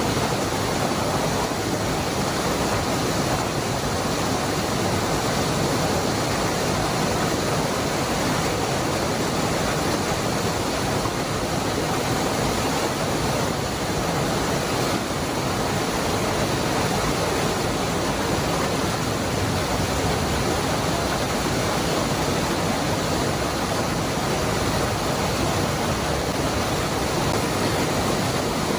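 Waterfall with water falling and rushing in a steady, unbroken roar of white noise.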